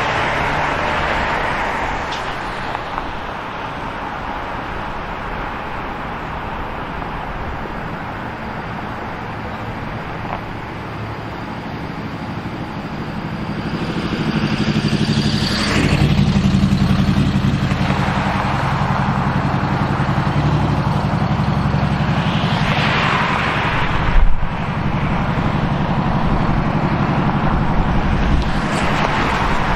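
City street traffic: cars passing one after another with tyre and engine noise. From about halfway through, a vehicle engine runs close by with a steady low drone, and a short sharp knock sounds near the end.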